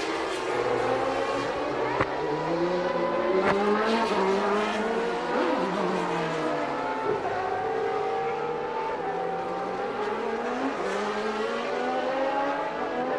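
Several 1989 Formula One cars' naturally aspirated 3.5-litre engines running at once, their pitches rising and falling as the cars accelerate, lift off and change gear.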